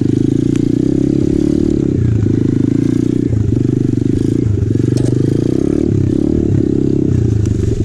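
2020 Apollo RFZ 125cc pit bike's engine running under load on a rough trail, its note dropping briefly several times as the throttle is eased and picked up again. A few short clatters from the bike are heard over it.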